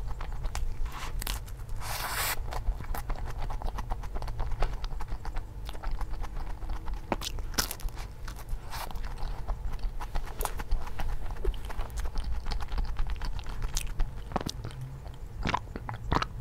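Close-miked chewing and biting of an egg waffle filled with whipped cream and green grapes: many short, irregular crunches and mouth clicks.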